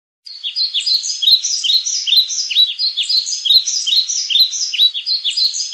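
Small birds chirping: short, bright, repeated calls in a quick, even pattern, about two a second.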